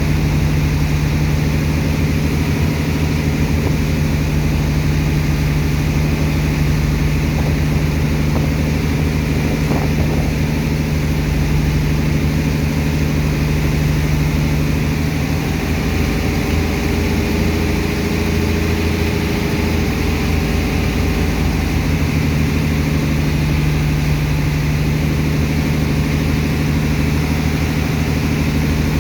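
Heavy engine of a sand-unloading dredger machine running steadily at constant speed, a deep, even drone.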